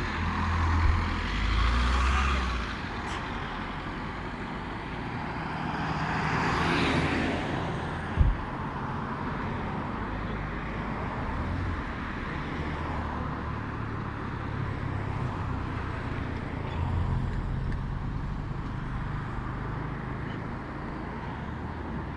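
Motor vehicle engine and road noise: a steady low rumble that swells for a moment about six seconds in, with a single sharp knock about eight seconds in.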